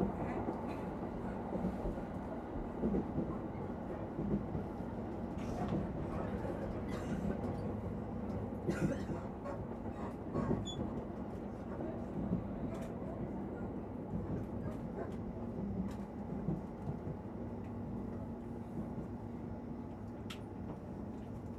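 Interior of a commuter electric train running between stations: a steady rumble of wheels on rail with a low steady hum, and scattered short clicks and rattles.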